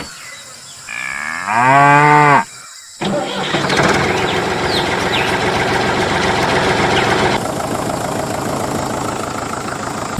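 A cow moos once, its pitch sinking at the end. About three seconds in, a rough, steady mechanical running noise starts and eases off a little later on.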